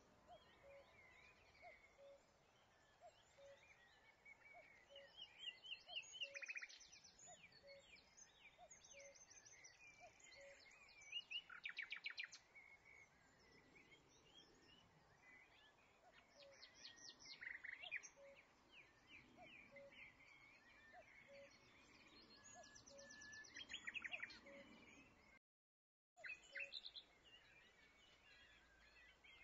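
Faint birdsong: several birds chirping and trilling in short phrases, with a soft note repeating about twice a second underneath. The sound cuts out completely for about half a second near the end.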